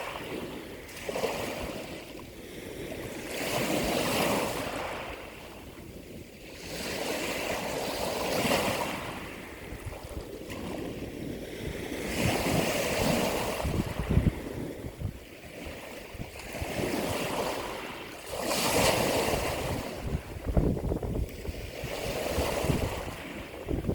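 Ocean surf: waves breaking and washing ashore, the rush of water swelling and falling away every few seconds.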